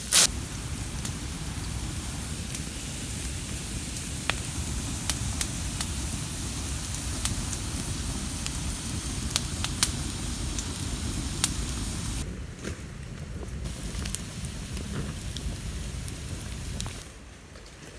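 Campfire burning with a steady low rush and occasional sharp crackling pops. The sound drops and changes about two-thirds of the way through, and again near the end.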